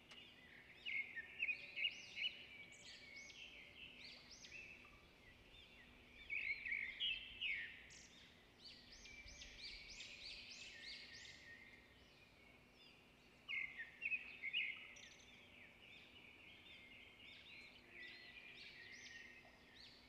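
Faint bird twittering: bursts of quick, high chirps every few seconds, over a faint steady low hum.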